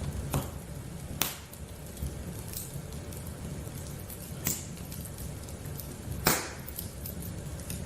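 Wood fire burning in a fireplace, crackling. A steady low rumble runs under sharp pops every second or two, with the loudest pop a little past six seconds in.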